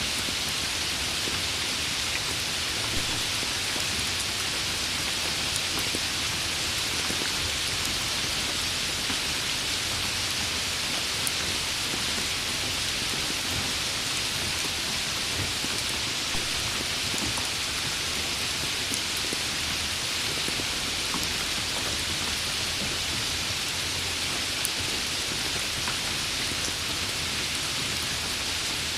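Steady rain falling on a surface, a constant hiss with faint scattered drop ticks.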